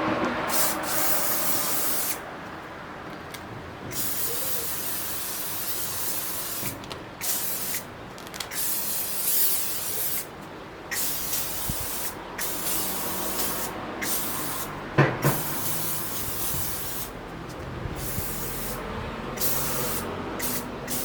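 Aerosol can of leaf-shine polish spraying onto plant leaves in a series of bursts, some a second or two long, with short pauses between them.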